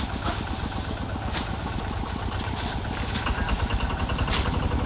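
A small engine running steadily at idle, with a few short clicks over it.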